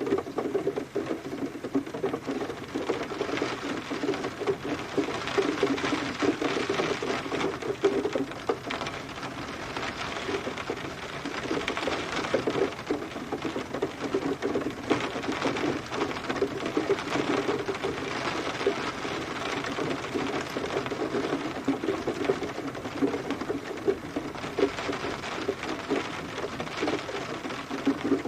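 Steady rain falling, with dense patter of drops striking a surface and a fuller drumming in the lower range.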